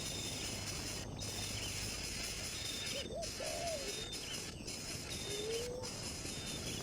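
Bird calls over a steady hiss: a few short, low, curving calls around the middle and a longer one near the end, with faint high chirps repeating about once a second.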